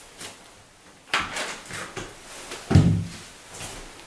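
Clicks and knocks of a new metal tubular door latch and its screws being handled while the latch is fitted into the door edge: a sharp click about a second in and a duller thump a little before three seconds, with fainter handling noise between.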